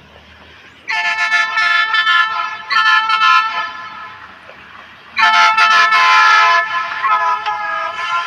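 Horn of a VLT diesel light-rail train sounding four chord-like blasts in two pairs, the first starting about a second in and the second pair about five seconds in.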